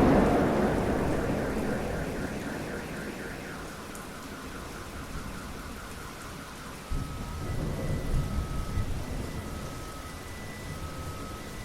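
Thunderstorm with steady rain falling. A thunderclap that broke just before is rumbling away, and a second roll of thunder starts suddenly about seven seconds in and rumbles for a couple of seconds. A faint high tone repeats in the background.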